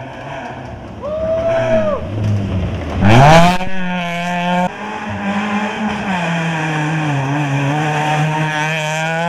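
Volkswagen Polo rally car in the 1600 class, its engine revving hard, with a short arching squeal about a second in. About three seconds in the revs climb sharply to the loudest point, then the engine holds at high revs with brief dips at gear changes.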